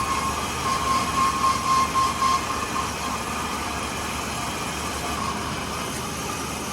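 Steady workshop machinery noise, with a pulsing high whine during the first couple of seconds that then fades into an even hum.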